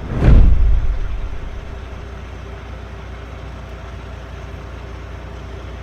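Steady low vehicle engine rumble, with a loud low thump about a quarter second in that fades away over the next second.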